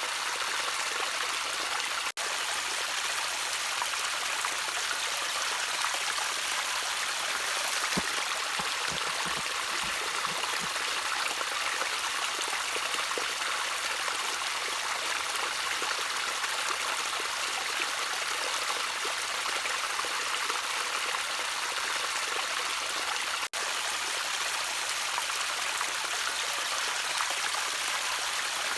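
Gently trickling stream water, a steady rush of running water with a few faint low plops. The sound drops out for an instant twice.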